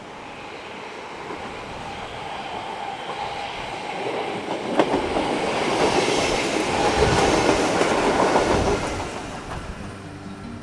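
A train passing on the rails, growing louder over the first seven seconds or so, then fading near the end, with a sharp click about five seconds in.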